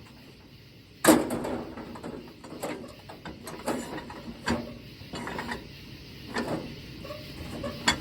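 Metal clanking and knocking from a manual tire changer being worked by hand to break down a tire. A loud clank comes about a second in, followed by irregular knocks and rattles.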